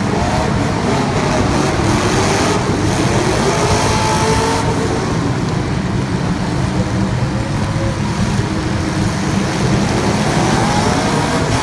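A field of race car engines running together at speed, their pitches rising and falling as the cars accelerate, lift and pass.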